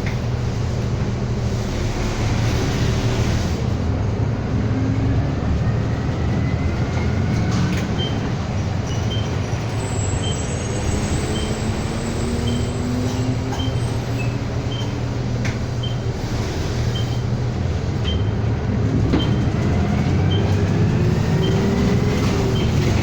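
Inside a moving city bus: the engine and drivetrain run steadily, with a rising whine as the bus picks up speed near the start and again near the end. From about a third of the way in, an even ticking about twice a second sounds over it, typical of the bus's turn-signal relay.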